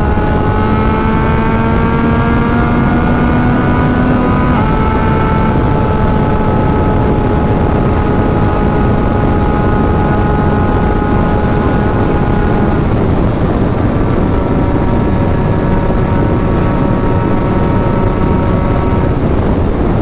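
Yamaha MT-09 three-cylinder engine with an aftermarket exhaust, held at high revs on a top-speed run after an ECU flash, its pitch creeping slowly upward with a small step up about four and a half seconds in. Heavy wind rush lies under it.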